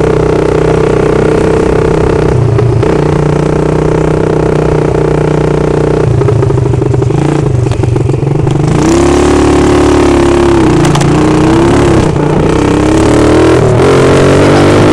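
Loud exhaust of a 110cc ATV's single-cylinder four-stroke engine running with no muffler. It holds a steady pitch at first, then is revved up and down several times in the second half.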